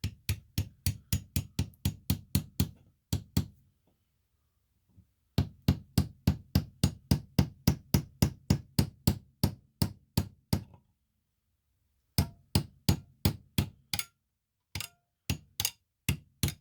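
Hammer blows on rock being split for fossils, rapid sharp strikes about four a second. They come in several runs with pauses of a second or two between them.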